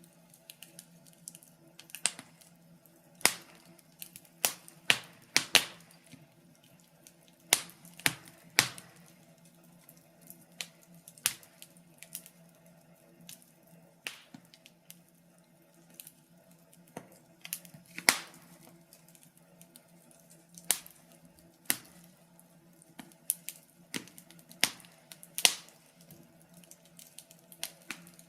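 Wood fire crackling in a fireplace: irregular sharp pops and snaps from the burning logs, some spaced seconds apart, over a faint steady hum.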